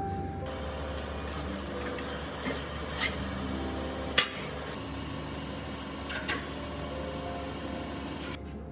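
Steady scraping or rubbing noise with a few sharp clicks, the loudest about four seconds in, over background music with held notes.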